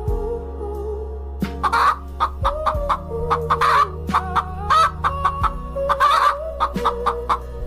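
Chicken clucking, short repeated calls at an uneven pace, over background music with a steady low drone.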